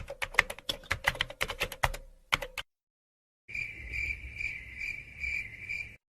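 Two sound effects in a row: a quick, irregular run of clicks like fast typing on a computer keyboard for about two and a half seconds, then, after a brief silence, a cricket chirping in an even pulsing rhythm, about two chirps a second.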